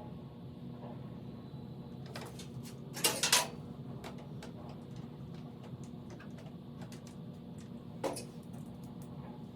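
Sharp knocks and clicks of plastic fairing panels and fasteners being fitted back onto a motorcycle: a loud double knock about three seconds in and another knock near the end, over a steady low hum.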